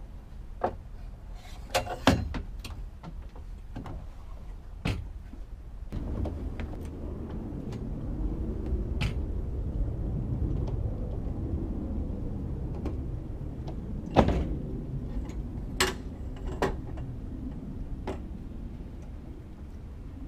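Scattered knocks and clunks as the sailboat's drop-down stern platform is handled and raised, the loudest about two seconds in and again about fourteen seconds in. From about six seconds in a low steady rumble runs beneath them.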